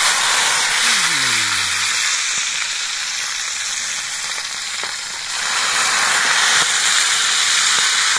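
Grasshoppers sizzling as they fry in hot oil in a small pot on a portable gas stove. The hiss starts suddenly and is loud, eases a little in the middle, then picks up again about five seconds in.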